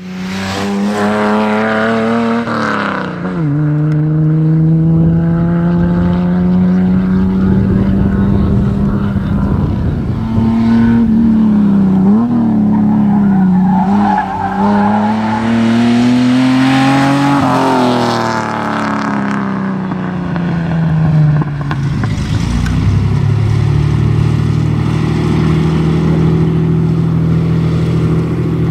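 Datsun 240Z's straight-six engine running, its revs climbing and dropping back twice before settling to a steadier, lower note near the end.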